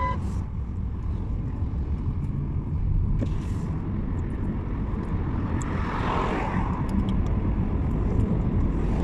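Steady low rumble of a car moving along a road, engine and tyre noise together, with a brief swell of hiss about six seconds in.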